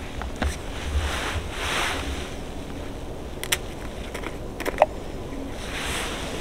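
Wind gusting through the forest and buffeting the microphone, swelling a couple of times, with a few sharp clicks midway.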